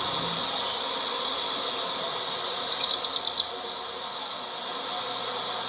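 Steady high-pitched insect drone, with a quick run of about seven short high chirps about two and a half seconds in.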